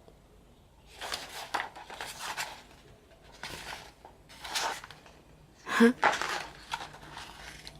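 Paper rustling and light knocks from the pages and inserts of a K-pop album photo book being handled and turned, in several short bursts, the loudest about six seconds in.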